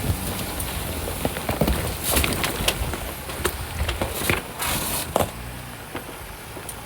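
Off-road vehicle on a rough trail: a low engine rumble under many sharp knocks and rattles, most of them in the first five seconds, then fewer.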